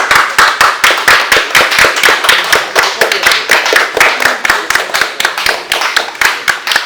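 Hand clapping from a small group of people: a quick, steady run of distinct, sharp claps.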